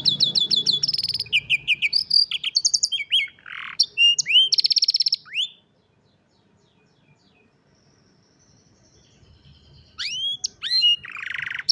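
Domestic canary singing: fast trills and rolls of rapidly repeated high notes. The song breaks off about five and a half seconds in for a pause of about four seconds, then starts again near the end.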